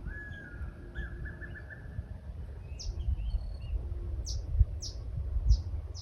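Songbirds calling: a quick run of short repeated notes, then several high, sharply falling chirps in the second half, over a low irregular rumble.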